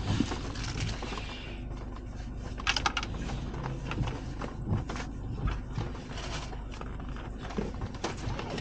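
Car driving on a wet, rough road, heard from the car: a steady low rumble of road and engine, a hiss for the first second or so, then scattered irregular ticks and clicks.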